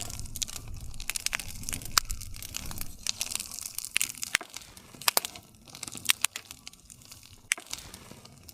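Wood fire crackling: many sharp pops and snaps from burning wood over a low rumble of flames, thinning out somewhat in the second half.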